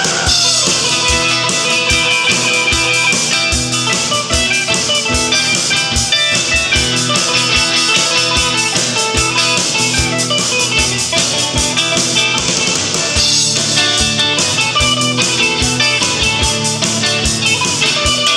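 Instrumental break of a live folk-rock band: guitar, mandolin and three-string cigar box guitar playing over a steady kick-drum beat, with no singing.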